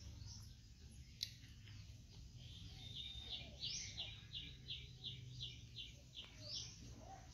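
Faint outdoor birdsong: a quick run of about ten short, high chirps at roughly three a second through the middle, with a few single rising chirps around it, over a low steady background hum.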